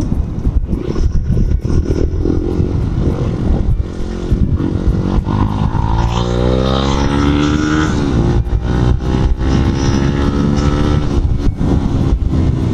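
Motorcycle engine accelerating while riding, its pitch climbing for several seconds through the middle and then holding steady, over a constant rumble of wind and road noise.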